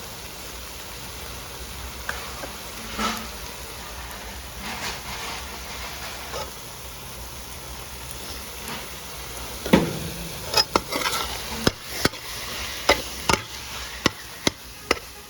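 Catfish, tomato and seasoning frying in a pot with a steady sizzle. About ten seconds in, a spoon starts knocking against the pot in quick sharp clacks as the mixture is stirred.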